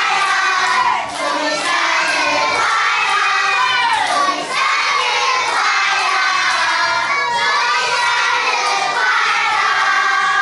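A crowd of children shouting and singing together, loud and continuous.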